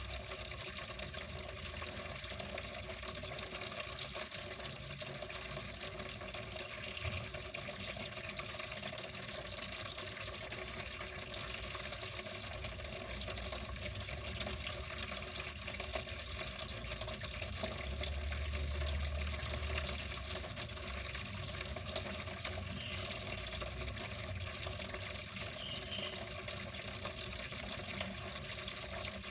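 Water running steadily, a continuous even splashing flow, with a brief low rumble about two-thirds of the way through.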